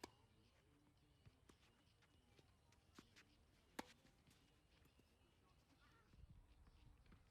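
Faint, sharp knocks of tennis balls off rackets and the court during a doubles rally, a handful of irregularly spaced hits with the loudest about halfway through.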